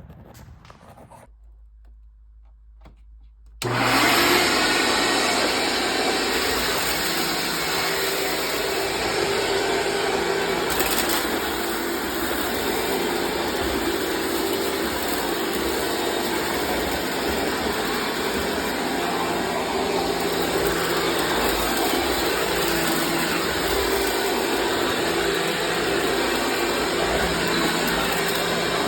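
Sharp Twin Energy EC-12TWT4 upright vacuum switched on about three and a half seconds in and running steadily at full speed, a loud even motor whine.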